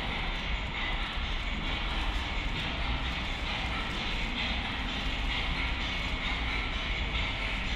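Train running: a steady rumble with rolling noise that holds at an even level throughout.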